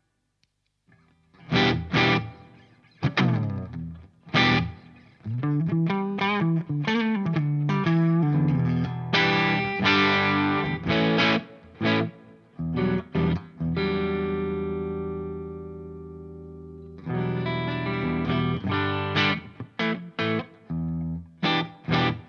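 Electric guitar played through a DOD Looking Glass Class A FET overdrive pedal, giving a mildly distorted tone. After a second or so of silence come separate chord hits, then a short run of single notes with bends, then a chord left to ring out and fade for several seconds, and near the end quick repeated strumming.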